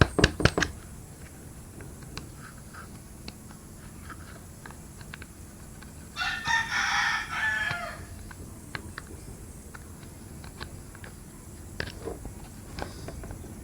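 A rooster crowing once, about six seconds in, for under two seconds. A cluster of loud sharp knocks comes at the very start, with scattered small clicks after.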